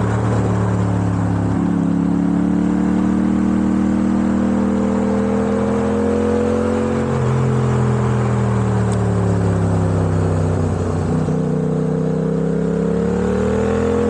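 Yamaha MT-07's CP2 parallel-twin engine running under load while riding, with wind rush. The engine note steps in pitch about a second and a half in and again about seven seconds in, slowly falls, then climbs again near the end.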